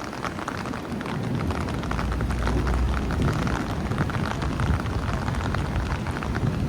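Heavy rain falling and pattering on hard surfaces in a constant dense spatter of drops, with a low rumble swelling about two seconds in.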